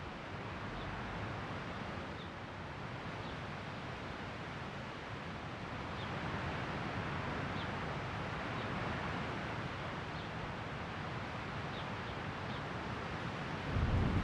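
Steady outdoor background hiss with faint, brief bird chirps every second or so. Just before the end a loud low rumble starts.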